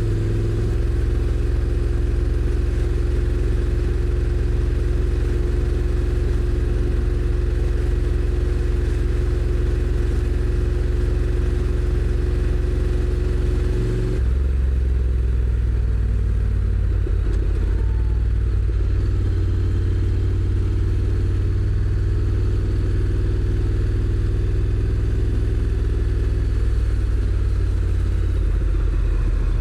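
Honda NC750X's 745 cc parallel-twin engine running under way on the road, heard from the rider's position. Its note holds steady, then changes abruptly about halfway through.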